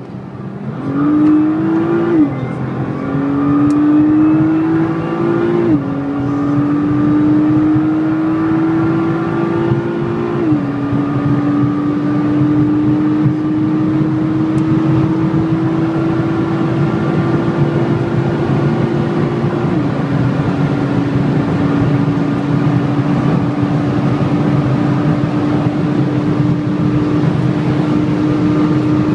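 A high-performance engine accelerating hard through the gears. Its pitch climbs and drops at each of four upshifts, about 2, 6, 10 and 20 seconds in, and each gear is held longer than the one before. After the last shift it runs at a nearly steady high pitch, with steady wind and road noise underneath.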